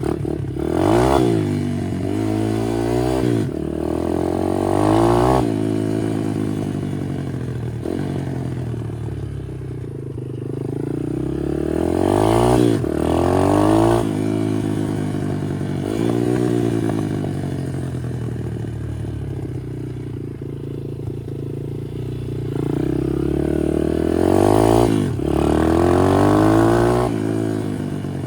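Chinese pit bike's small single-cylinder four-stroke engine, fitted with a new aftermarket cam, being ridden and revved up and backed off again and again, its pitch climbing and falling with each burst of throttle.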